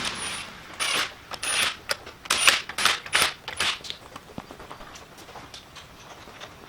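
Irregular metal clinks and short rattles of hand-handled hardware and tools during wheel refitting, busiest in the first four seconds and then thinning to a few faint ticks.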